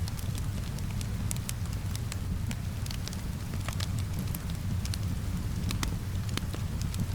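Wood fire crackling, with sharp pops at irregular intervals, over a steady low rumble and the even hiss of rain.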